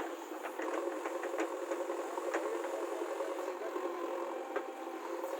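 JCB 3DX backhoe loader's diesel engine running steadily, with a few sharp metallic clicks from the machine.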